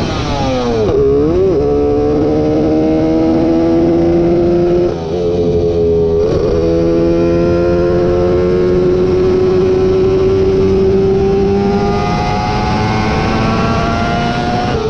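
A vehicle engine running hard with the revs changing all the time. The pitch drops and recovers in the first two seconds, with a short break about five seconds in and a dip just after six seconds. Then the revs climb slowly for a long stretch and rise faster near the end.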